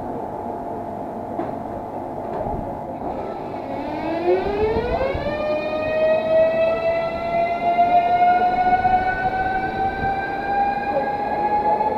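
Electric train on the Moscow Central Circle pulling away: the traction motors' whine rises quickly in pitch about four seconds in, then keeps climbing slowly as the train gathers speed, over the running rumble of the train.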